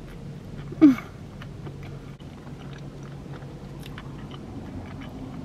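A person chewing a mouthful of French fries topped with melted cheese and spread, with faint scattered clicks of the mouth. About a second in comes one short, loud sound that falls in pitch.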